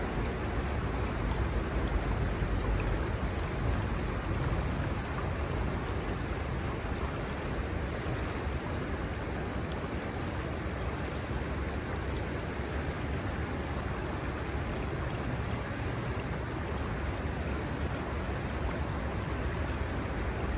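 Steady rushing of the Kamo River's shallow water flowing over its sandbanks, with a low rumble underneath that is a little stronger in the first few seconds.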